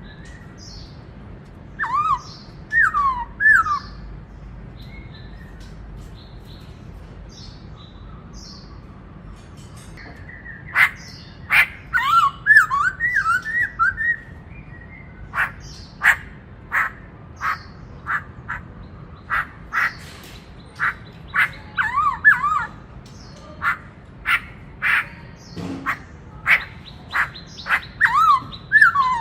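Black-throated laughingthrush singing in bursts of looping whistled phrases, with a run of short, sharp calls repeated many times through the second half.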